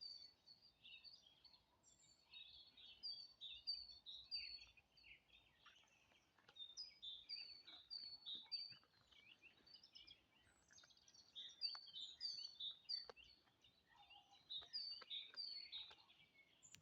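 Small songbirds chirping faintly outdoors, many short high notes that slide downward, coming thick and fast.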